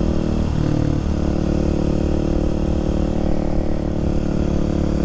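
Kawasaki KLX300SM's single-cylinder engine running steadily, its note dipping briefly about half a second in and then holding even, with low wind rumble on the microphone.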